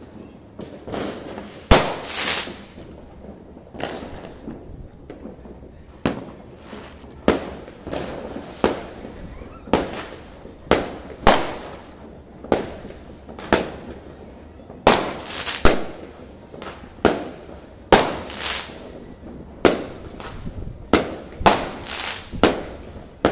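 New Year's Eve fireworks going off: a run of sharp bangs at irregular intervals, roughly one a second, some of them trailing off in echoes.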